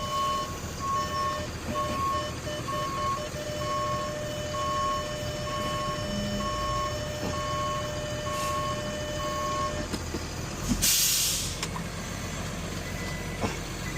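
Box truck reversing up to a loading dock: its backup alarm beeps about once a second over the low running of the engine, then stops about ten seconds in. A second later comes a short, sharp hiss of air as the brake is set.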